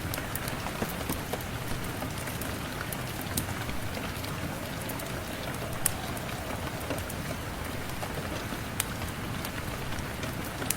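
Steady rain falling, with a few scattered sharp pops and crackles from a wood fire.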